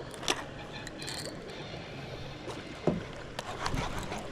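Steady rush of a flooded river's water, with a few short knocks and clicks scattered through it.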